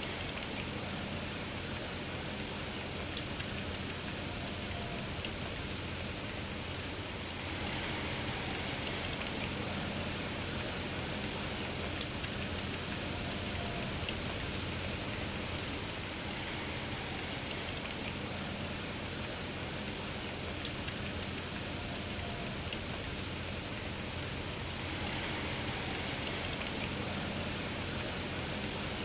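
Steady rain falling, with three sharp single ticks standing out above it: a few seconds in, near the middle, and about two-thirds of the way through.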